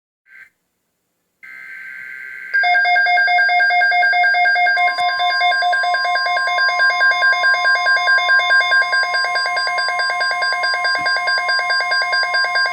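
Weather radio alert: a short buzzy data burst, then the receiver's loud, rapidly pulsing alarm beep. About five seconds in, a steady single warning tone joins it and holds under the beeping. This signals an incoming severe weather message.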